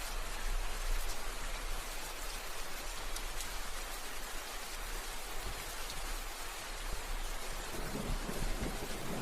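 Steady rain falling and pattering on surfaces, with a low rumble of thunder building near the end.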